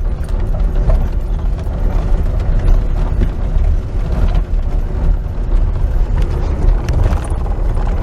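1997 Fiat Uno driving over cobblestones: a steady rumble of tyres and body, with quick irregular rattling knocks from under the front. The rattle is a loose sheet-metal vibration, later traced to the sump guard striking the oil pan because the worn front springs let the front sit low.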